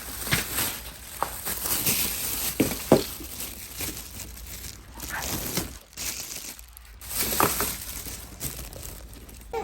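Plastic toy packaging crinkling and tearing as it is unwrapped, with many small crackles and rustles.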